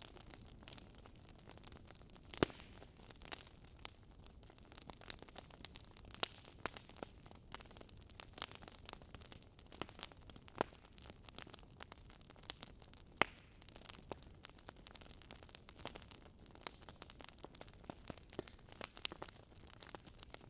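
Wood fire crackling in a fireplace: irregular sharp pops and snaps over a faint hiss, with two louder pops, one about two seconds in and one past the middle.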